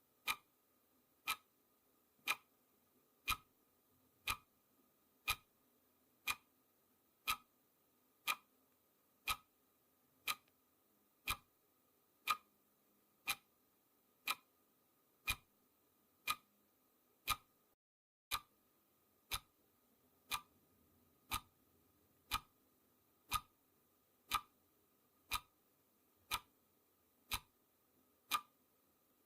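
Clock ticking, one sharp tick each second in a steady even beat, over a faint steady hum. The background hum drops out for a split second about two-thirds of the way through, while the ticking keeps its pace.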